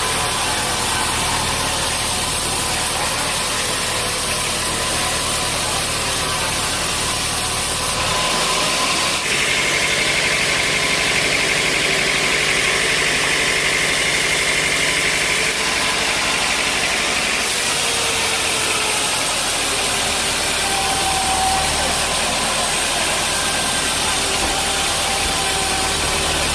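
Sawmill machinery running steadily with a constant engine-like drone. Its sound shifts at about eight seconds in, with a higher whine from about ten to fifteen seconds in, and shifts back at about seventeen seconds.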